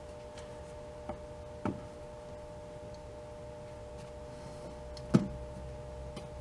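A few light clicks and one sharper knock about five seconds in, from hands working on the engine as the valve cover is fitted, over a steady electrical hum.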